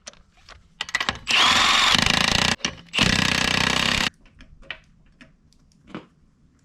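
Cordless impact wrench run in two bursts of about a second each, spinning lug nuts onto a truck wheel, with light clicks of handling around them.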